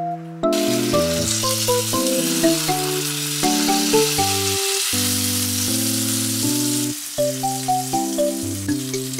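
Salmon fillet frying in olive oil in a frying pan, sizzling steadily from about half a second in, over background music.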